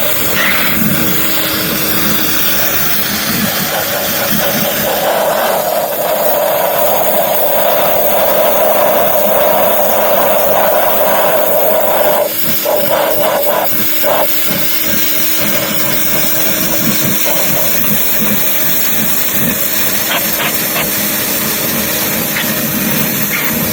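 Pressure washer running steadily: a constant motor tone under the hiss of the water jet, blasting carbon deposits off a flathead V8 cylinder head. The spray breaks off briefly a few times around the middle.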